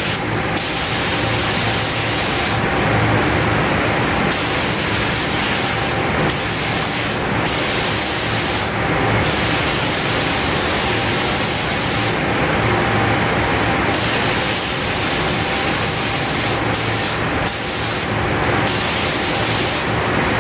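Paint being sprayed in repeated bursts of hiss, each one to a few seconds long with short breaks between, over a steady mechanical running noise.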